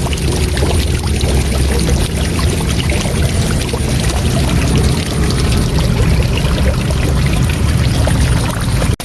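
Waterfall: rushing, falling water running steadily, with a deep rumble underneath, cut off for an instant at the very end.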